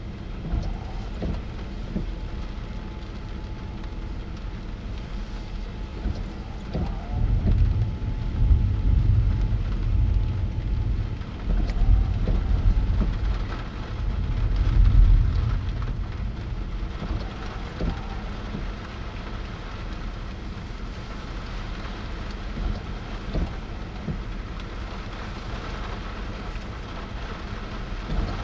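Rain falling in a thunderstorm, with scattered drops ticking close by. A deep low rumble swells up twice around the middle, then eases back.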